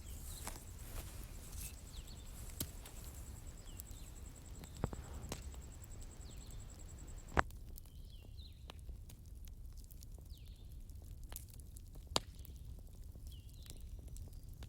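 Wood fire burning outdoors: irregular sharp crackles and pops over a low steady rumble, with the loudest pops about halfway and again near the end. Small birds chirp now and then, and a high steady insect trill stops about halfway.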